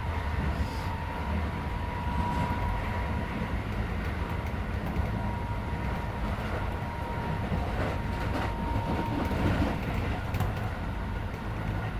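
Running noise inside a Keisei 3400 series electric train car travelling between stations: a steady rumble of wheels and running gear with a few rail-joint clicks. A thin, steady high tone runs underneath and fades out about nine seconds in.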